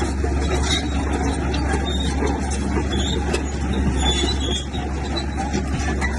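Heavy diesel earth-moving machine running steadily, a deep low drone with noisy mechanical clatter and an occasional knock.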